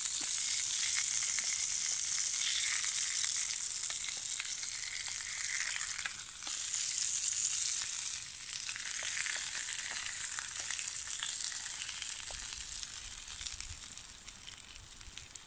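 Slices of Spam sizzling steadily in a hot frying pan, with a few light scrapes as a wooden spatula turns them. The sizzle dies down toward the end.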